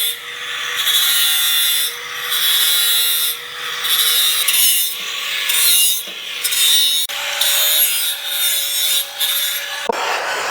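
Power tool cutting or grinding steel exhaust tubing. A steady motor hum runs underneath, and the harsh grinding noise swells and drops off in strokes about once a second as the tool is worked against the metal.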